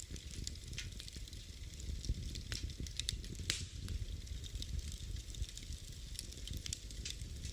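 Wood fire crackling in a fireplace: a steady low burning rumble with frequent irregular pops and snaps, one sharper pop about three and a half seconds in.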